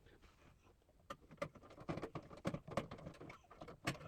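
Faint, irregular small clicks and taps of a screwdriver and small screws being worked while a motherboard is screwed into a PC case. They start about a second in, a few a second.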